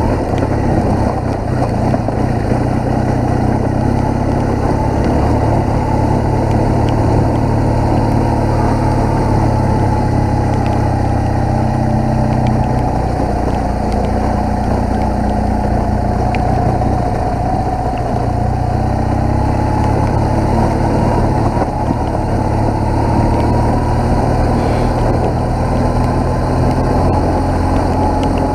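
BMW motorcycle engine running steadily while riding, under a continuous rush of wind and road noise; the engine note dips slightly midway and climbs again near the end.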